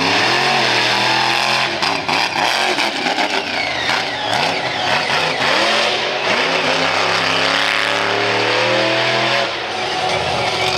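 Monster truck engine revving hard, its pitch sweeping up and down quickly several times, then climbing steadily for a few seconds before dropping off near the end.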